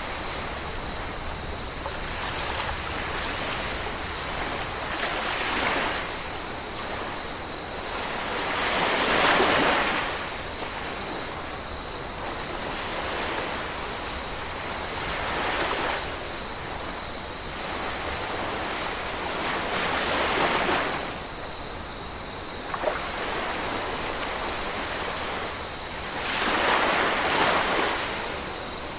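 Ocean waves washing onto a tropical beach: a steady wash of surf that swells into a larger wave about every five to six seconds, four times.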